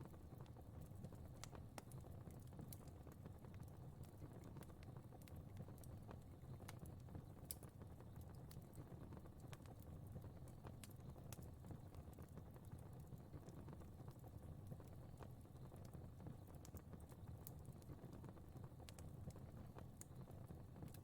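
Faint fire crackling in a fireplace: irregular small pops and snaps over a steady low rumble.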